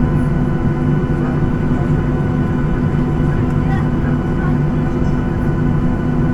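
Steady cabin noise of a Boeing 737-800 with CFM56-7B engines: a constant engine drone with several fixed hum tones over a low rumble.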